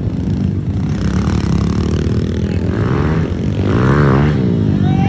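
Small four-stroke pit bike engines running hard in a motocross race. About four seconds in, one engine's pitch rises and then falls as it revs through or passes close.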